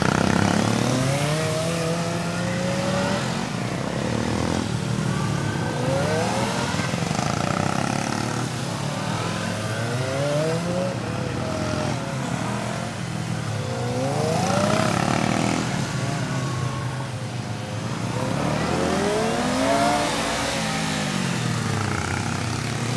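Kawasaki ZX-25R's 250 cc inline-four engine revving up and dropping back again and again as the motorcycle accelerates and brakes through a tight gymkhana course, about six climbs and falls in pitch.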